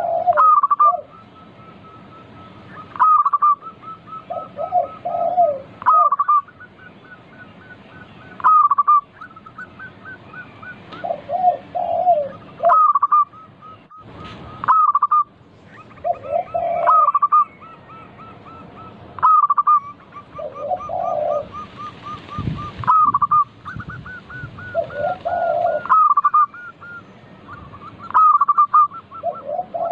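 Zebra doves (perkutut) cooing. A phrase of low notes rising into louder, higher coos repeats about every three seconds, with a fast thin trill running between the phrases.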